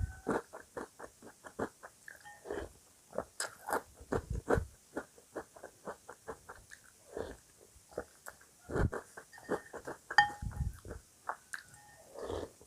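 A person chewing cereal close to the microphone: quick runs of crisp crunches, several a second, with a couple of brief ringing clinks.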